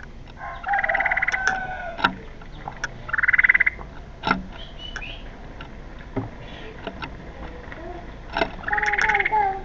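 Harsh, rasping bird calls, three of them, with sharp clicks between.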